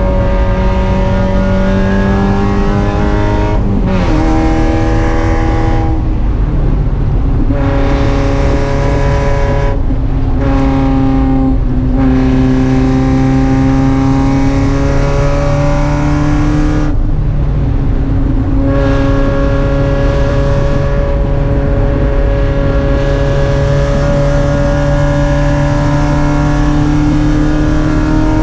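Spec Miata's four-cylinder engine running hard at racing speed, its pitch climbing slowly through long pulls. The pitch drops suddenly about four seconds in, and the engine note breaks off briefly several times, as the throttle is lifted.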